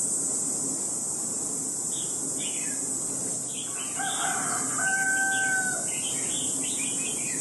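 A bird's long, flat held call around the middle, in two parts, the second stronger and about a second long, over a steady high insect drone and a few short bird chirps.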